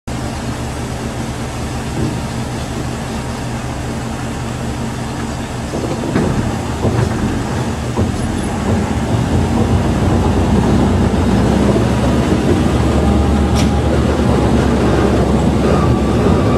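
Ōigawa Railway Ikawa Line train running: a steady low drone with a few sharp clacks. It grows louder about six seconds in.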